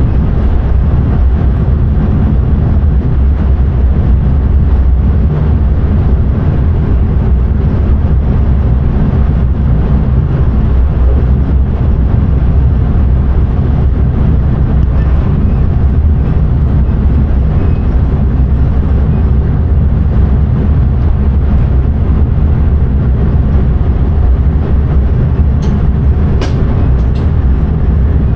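Steady running rumble of an intercity train at speed, heard from inside the driver's cab, with a few faint clicks near the end.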